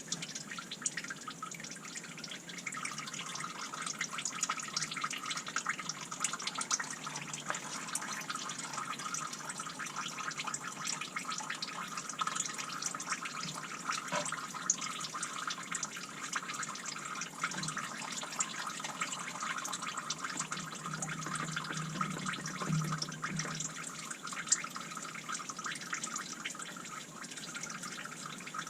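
Engine oil draining from a 2018 Ford F-150's 5.0 V8 after the oil filter is taken off: it runs off the filter tray and drips and trickles steadily into a catch pan.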